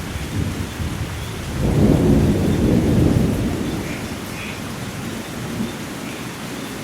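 Steady rain falling during a thunderstorm, with a low rumble of thunder that swells about one and a half seconds in, peaks, and fades away over the next few seconds.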